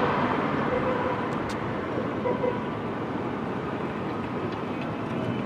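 City street traffic: a steady, even rumble of passing vehicles.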